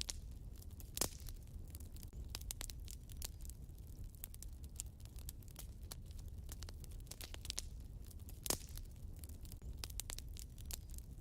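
Wood fire burning in a fireplace, crackling with a steady run of small snaps over a low rumble. Two louder pops stand out, about a second in and about three-quarters of the way through.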